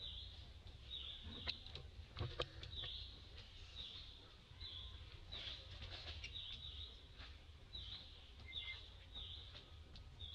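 A bird calling over and over in short, high chirps, about one and a half a second. A few sharp clicks come about two seconds in, over a steady low rumble.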